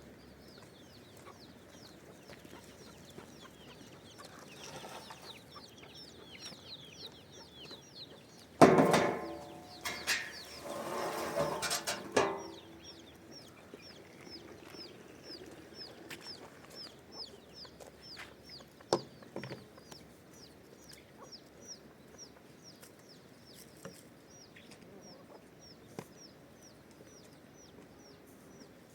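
Chickens: a loud run of clucking calls for about four seconds in the middle, over a steady series of short high peeping chirps, about three a second.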